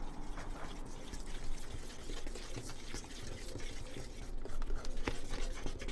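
Kitchen sounds of pancake batter being made: wet liquid sounds of batter being poured and mixed, with many sharp clicks of utensils against a bowl.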